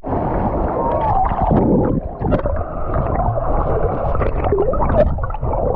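Water rushing and splashing, a dense steady wash of noise with scattered splashes and faint far-off voices mixed in.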